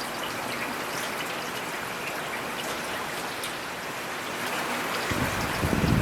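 Steady rain falling, with the small ticks of individual drops hitting surfaces. Near the end a louder, deeper rumble swells in.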